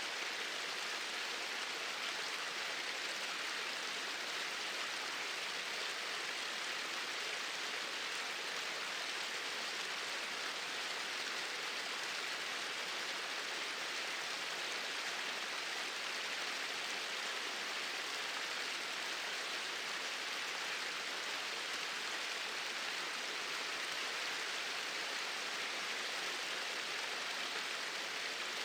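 Small waterfall: a steady, even rush of falling water with no change over time.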